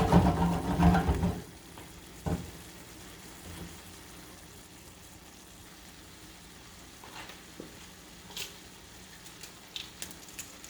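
Chicken and bell pepper sizzling in a frying pan, stirred. The first second and a half is louder and busier; after that comes a steady faint sizzle with a few sharp utensil clicks.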